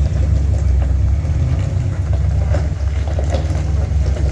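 Rock crawler's engine running with a steady deep rumble as it climbs, with a few short knocks on top.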